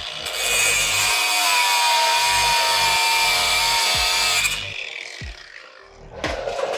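Power tool cutting a steel shaft key to shorten it: a loud grinding hiss with a steady whine for about four and a half seconds, then it stops, followed by a few light knocks.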